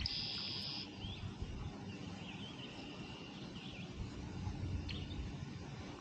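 Birds calling: a buzzy high trill for just under a second at the start, then scattered short chirps, over a low background rumble.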